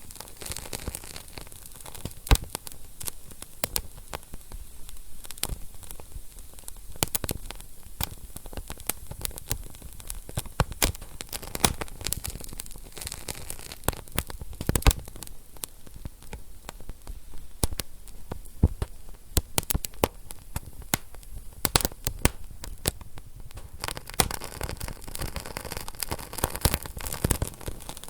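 Wood fire crackling in a fireplace: a steady hiss broken by frequent sharp, irregular pops and snaps.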